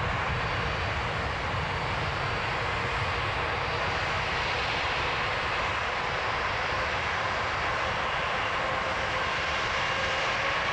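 Gulfstream IV business jet's twin Rolls-Royce Tay turbofans at takeoff power, a steady jet rumble and whine with a faint tone that rises slightly in pitch.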